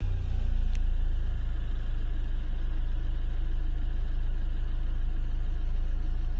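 Car engine running slowly, a steady low hum heard from inside the cabin, with one faint tick a little under a second in.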